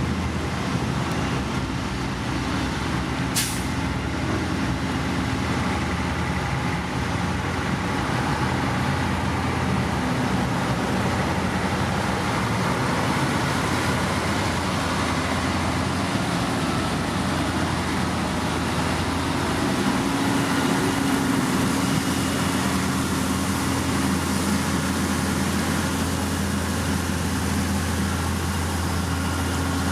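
Diesel engine of heavy earthmoving machinery running steadily, with one brief, sharp, high sound about three and a half seconds in.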